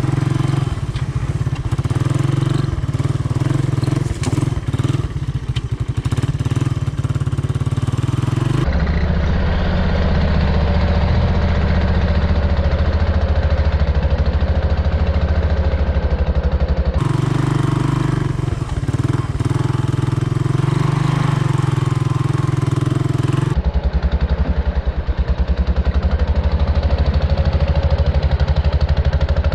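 Honda ATC 200M three-wheeler's air-cooled single-cylinder engine running steadily. The engine sound changes abruptly three times, as at cuts between separate recordings.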